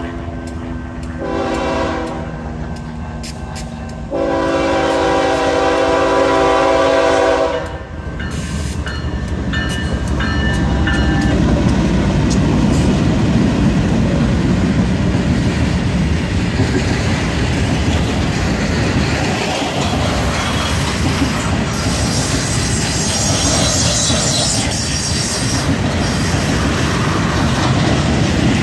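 BNSF freight locomotives' air horn sounding for a grade crossing, ending with a long, loudest blast about eight seconds in. The lead GE diesel units then pass close by with a deep engine rumble, followed by the steady clatter of loaded flatcars' wheels rolling over the rail joints.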